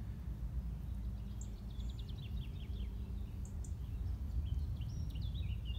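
A songbird singing fast, twittering phrases of short, sharp, falling notes, starting about a second and a half in and again in the last second and a half, over a steady low rumble.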